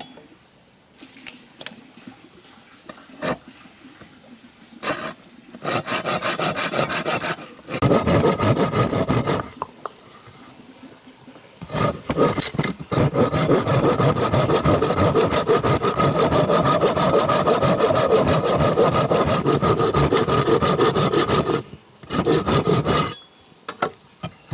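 A saw cutting through wood in several bouts of fast rasping strokes, the longest about ten seconds, with short pauses between.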